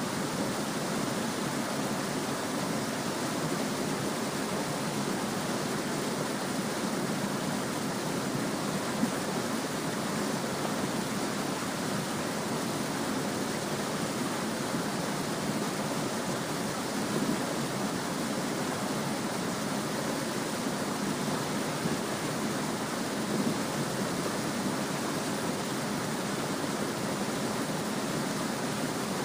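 A small stream babbling and rushing steadily over stones, an even, unbroken water sound.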